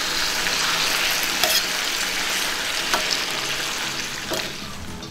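Marinated chicken pieces sizzling steadily in hot oil in a kadhai as a spoon stirs and turns them, with a few sharp clicks of the spoon against the pan. The sizzle dies down over the last second.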